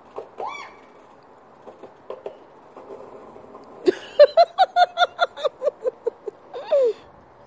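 A child's voice: a rapid run of short pitched 'ha' sounds, about six a second, like giggling, ending in one falling cry.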